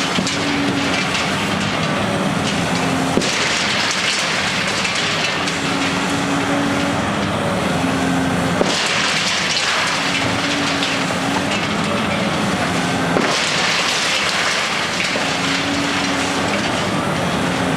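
Heavy demolition machinery running steadily, its engine tone rising and falling every few seconds under a dense crackling noise, with a few sharp knocks.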